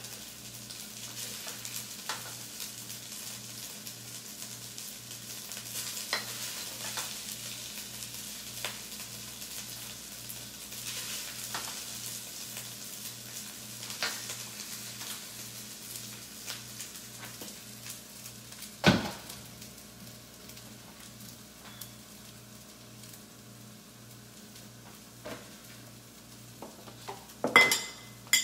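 Fried rice sizzling in a wok while being stirred, with scattered light clicks of a utensil against the pan. A sharp, loud knock comes about two-thirds of the way through, and a few more clatters near the end.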